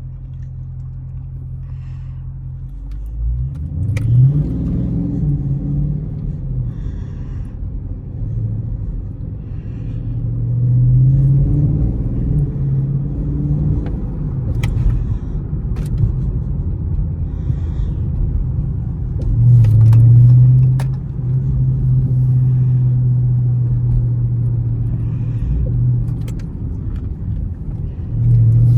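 Dodge Charger Scat Pack's 6.4-litre HEMI V8 running steadily, then revving up hard about three seconds in. It surges under throttle again several times, around the middle and near the end, with a few sharp clicks along the way.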